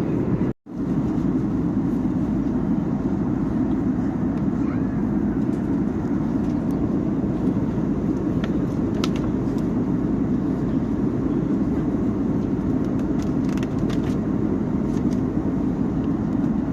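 Steady airliner cabin noise in flight: the low, even rush of the engines and airflow heard inside the passenger cabin, cut out briefly once about half a second in.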